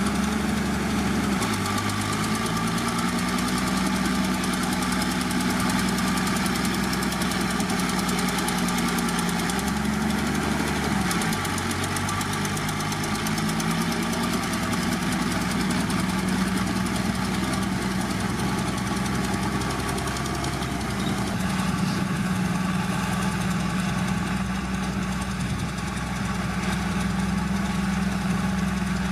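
Heavy diesel engine of an earthmoving machine running steadily with a dense clatter, its engine note dropping and rising briefly about a second in and again about ten seconds in.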